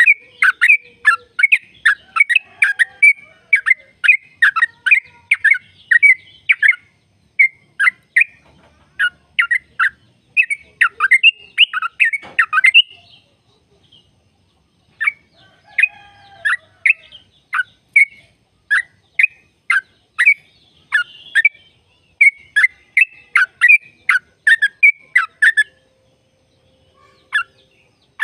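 Yellow-vented bulbul (trucukan) singing a long, fast run of short, loud, bubbling notes, about three a second. The song breaks off briefly near the middle and stops near the end.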